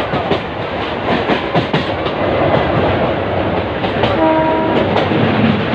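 Passenger train running, its wheels clattering and clicking over the rail joints under a steady rumble. A short horn toot sounds about four seconds in.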